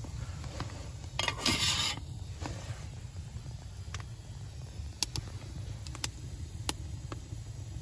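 A metal pot of water scraped into place over a wood fire, followed by sparse sharp pops and crackles over a steady low rumble of the burning fire.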